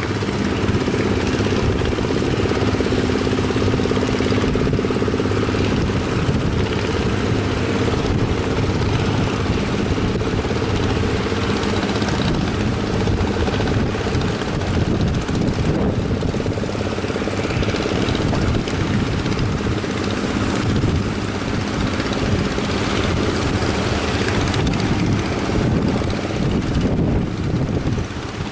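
A fishing boat's engine running steadily, with a broad rush of wind and surf over it. The engine's steady hum is clearest in the first several seconds.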